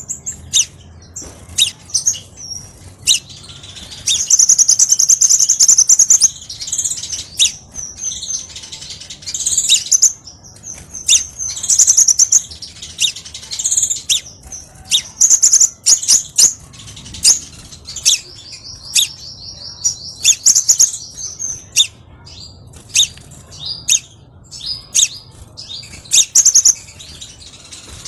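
Crimson sunbird (kolibri sepah raja) singing: high-pitched sharp chirps and ticks in quick succession, broken by longer rapid trills, one loud trill about four seconds in and a lower buzzing trill past the middle.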